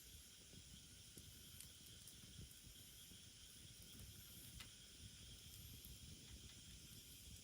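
Near silence: a small wood fire burning quietly, with a few faint crackles over a low hiss.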